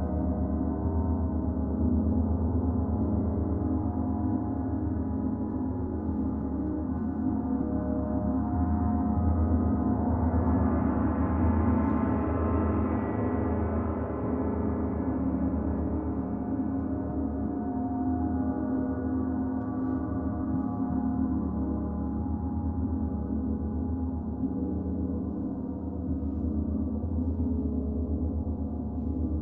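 Gong ringing in a continuous wash of many overlapping tones over a deep hum, swelling and growing brighter about ten to thirteen seconds in, then settling back.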